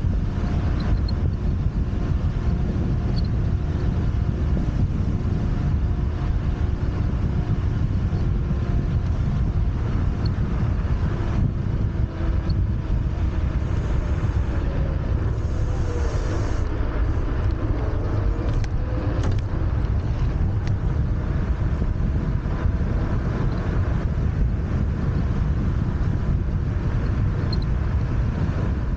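Steady wind rush on the microphone and road rumble from a moving Wolf Warrior 11+ electric scooter. Faint whining tones slide up and down about halfway through.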